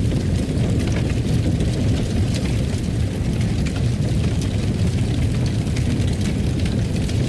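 Fireplace fire burning: a steady low rumble with scattered small crackles and pops.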